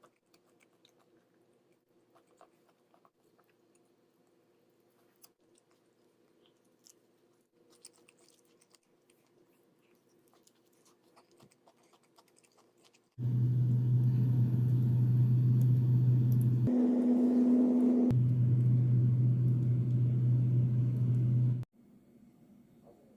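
A household electric appliance switching on about halfway through and running loudly with a steady low hum for about eight seconds. The hum jumps higher for a second or so, then drops back, and the appliance cuts off suddenly.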